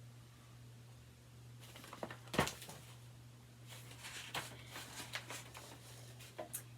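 Paper handling as a book's page is turned: a few soft rustles and light taps, the clearest about two and a half seconds in, over a steady low electrical hum.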